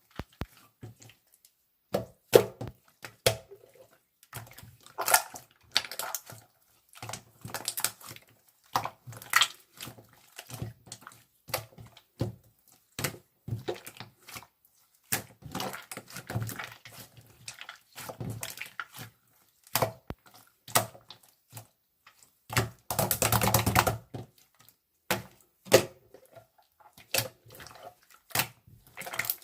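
Irregular handling sounds of small objects: scattered taps, clicks and knocks, with a few short rustling or scraping passages, the longest about twenty-three seconds in.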